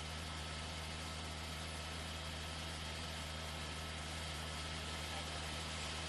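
Steady engine drone with a low hum and a faint constant whine, unchanging throughout.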